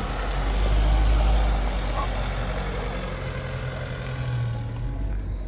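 Suzuki Jimny JB74's four-cylinder engine running at low revs off-road, swelling a little about a second in and then easing back.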